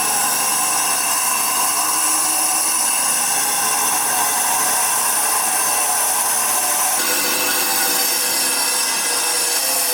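Power tool grinding or cutting stone: a steady, loud high-pitched whine over gritty noise, shifting slightly about seven seconds in.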